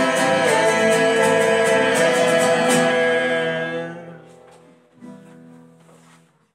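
Cueca sung with guitar accompaniment, strummed in a steady rhythm, ending on a held final chord that fades out about four seconds in; a faint, short chord follows near the end.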